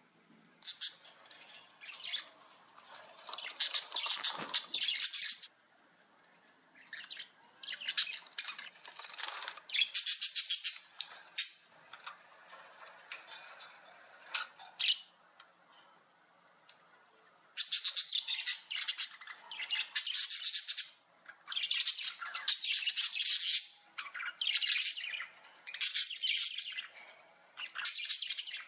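Small birds chirping and twittering in repeated bursts of one to three seconds, with short pauses between.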